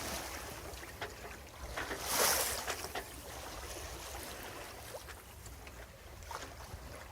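Water washing and splashing along the hull of a sailboat under sail, with wind rumbling on the microphone. One louder splash comes about two seconds in.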